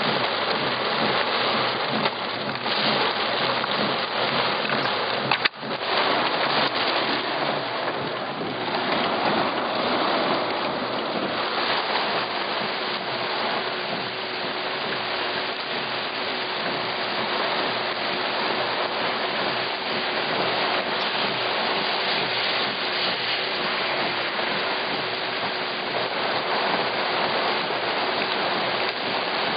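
Heavy thunderstorm rain pouring steadily in a dense hiss, first heard from inside a car with rain streaming on the glass, then, after a brief break about five seconds in, pouring onto flooded pavement outdoors.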